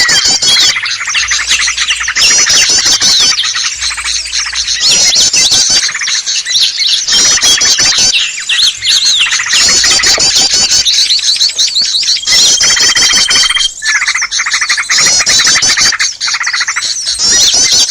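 Dense chorus of many small birds chirping and trilling at once, a bird-lure recording for small songbirds. About twelve seconds in, a thin steady whistle runs under the chatter for a second or so.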